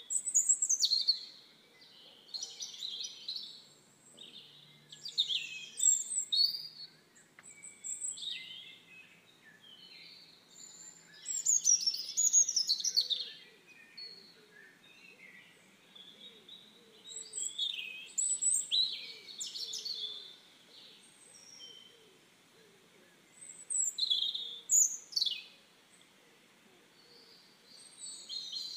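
Birds singing in short phrases of high, quick sweeping chirps, one phrase every few seconds with quieter gaps between.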